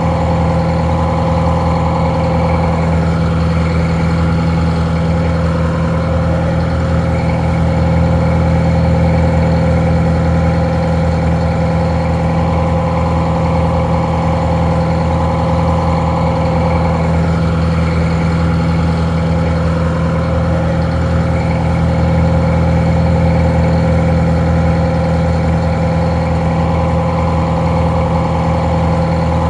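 Detroit Diesel 4-71 two-stroke diesel engine idling steadily.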